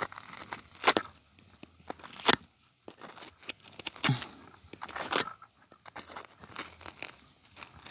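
Stones and gravel being scraped and knocked with a hand tool: irregular crunches, scrapes and clinks, with a few sharper strikes against rock.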